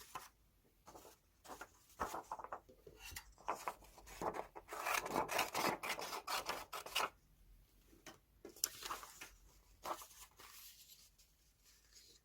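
Close-up paper handling with magazine cutouts: a run of short rustles, rubs and scrapes, thickest about four and a half to seven seconds in, with a few more around nine seconds.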